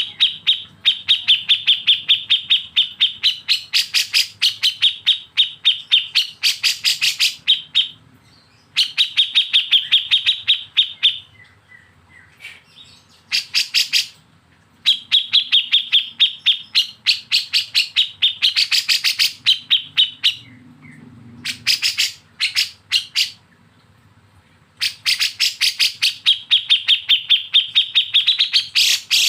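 A songbird giving the harsh, rapid rattling 'besetan' call used as training audio for caged songbirds: fast trains of raspy pulses in bouts of a few seconds, broken by short pauses, with a few thinner chirps in the gaps.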